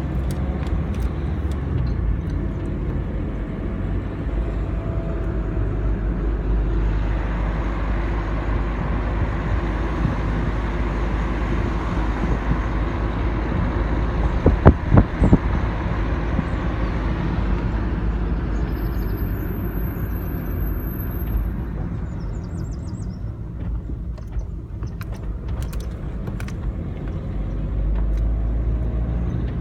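Steady motor-vehicle and road noise with a low rumble and a rushing sound that swells and fades in the middle stretch. A few sharp knocks come about halfway through.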